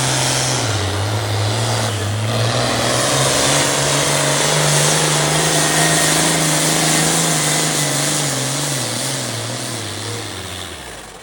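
Hot Farm class International pulling tractor's engine running hard at high revs under load. Its pitch wavers and climbs a little, then sinks and dies away shortly before the end.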